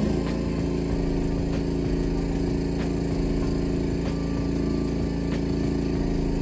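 A truck engine idling steadily at an even pitch.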